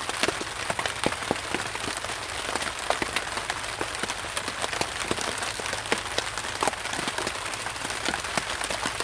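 Rain falling on a tarp tent, heard from inside: a steady hiss with many separate, irregular drop taps.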